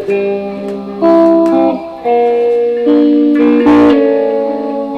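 Electric guitar picked up by a microphone, playing ringing picked chords and single notes that change about once a second, with a harder stroke a little before the end.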